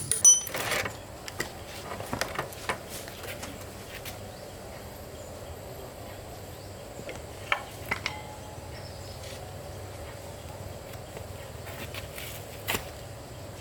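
Scattered light clicks and taps, as of tools or metal parts being handled during a repair, loudest in a short cluster at the start and then a few at a time over a steady quiet background.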